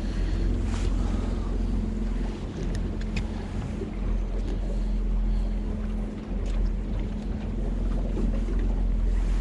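Boat motor running steadily at low speed, a constant low rumble with a steady hum, with wind buffeting the microphone and a few light ticks.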